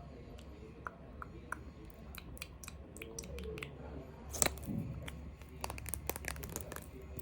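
Irregular light clicks, taps and crinkles of small objects being handled close to the microphone, densest about four and a half seconds in, over a steady low hum.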